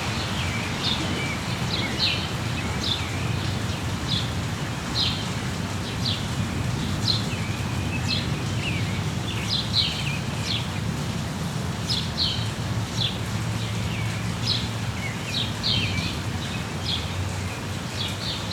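Birds chirping over and over, short high notes that each sweep downward, over a steady hiss of rain and a low steady rumble.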